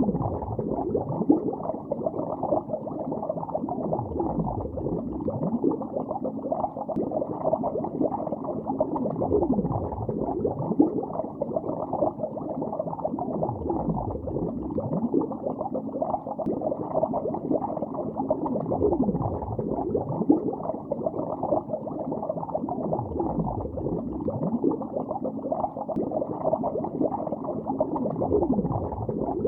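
Bubbles streaming and gurgling underwater in a lake, heard as a continuous muffled bubbling. A deep whooshing swell recurs about every five seconds.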